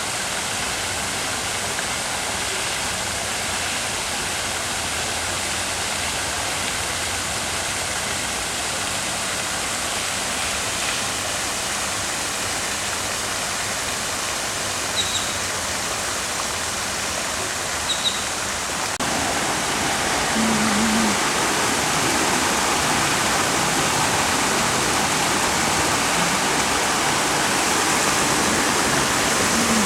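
Steady rush of running water, a little louder from about two-thirds of the way in, with two short high chirps about halfway through.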